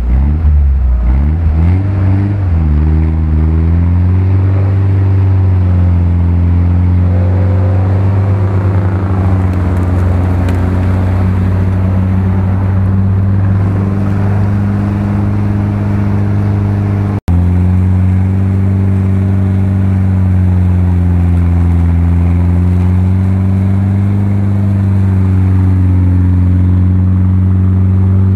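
Off-road 4x4 engines working at low revs through deep mud, the pitch rising and falling with the throttle. About two-thirds through, the sound drops out for an instant and another engine carries on, with slow swells in pitch.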